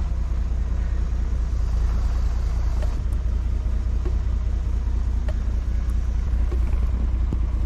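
Tractor engine running steadily, a low rumble with a few faint clicks on top.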